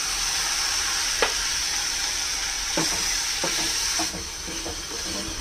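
Tomato purée sizzling steadily as it fries in hot oil with onion and spice masala in a non-stick kadai. A wooden spatula stirs it and knocks against the pan a few times.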